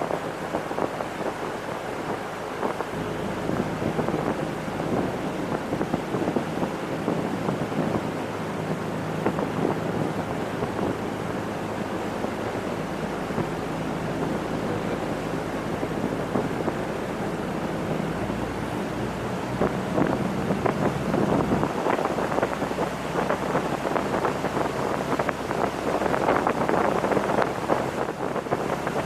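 Motorboat under way: a steady low engine drone under rushing water and wind buffeting the microphone. The engine note changes about two-thirds of the way through.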